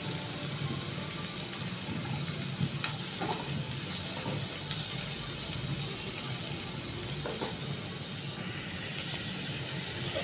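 Chopped onions and garlic sizzling gently in ghee in a nonstick kadai over a low-medium gas flame, softening. A few light knocks come from a silicone spatula stirring them.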